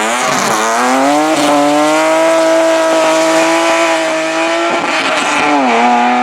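Hillclimb race car engine at high revs: it climbs in pitch over the first second and a half, holds a steady high note, then dips briefly near the end, as on a gear change or lift, and picks up again.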